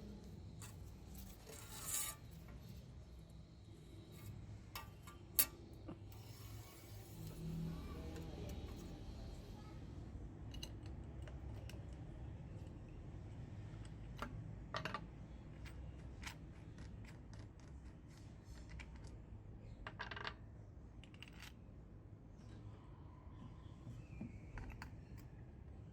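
Scattered light metallic clicks and clinks, like small tools or metal being handled, with a sharper click about five seconds in, over a low steady hum.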